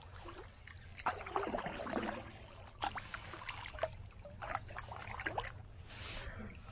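Paddle strokes in creek water: irregular splashes and drips as a paddle dips and pulls, every second or so.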